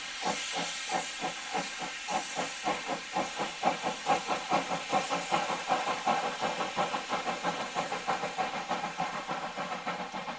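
Steam locomotive exhaust chuffing in an even rhythm that speeds up from about four to about six beats a second, over a steady steam hiss. It grows fainter near the end.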